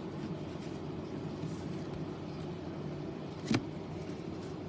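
Steady low background hum with a single short click about three and a half seconds in.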